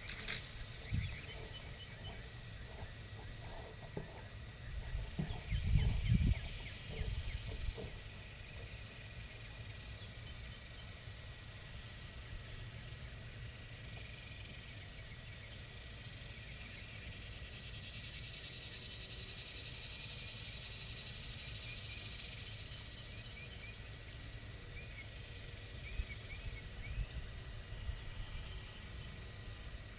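Pigs moving about: low thumps and rustling about five to eight seconds in and again near the end, with faint short high chirps now and then.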